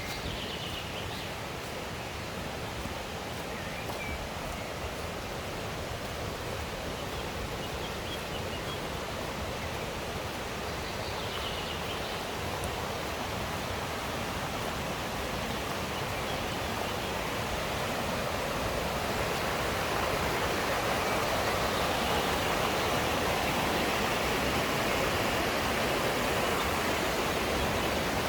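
Mountain stream rushing, a steady hiss of flowing water that grows gradually louder, with a few faint high bird chirps in the first half.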